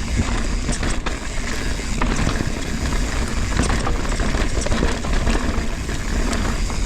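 Mountain bike riding over a rocky trail: steady wind rumble on the helmet camera's microphone, with frequent sharp knocks and rattles as the tyres and bike hit rocks and roots.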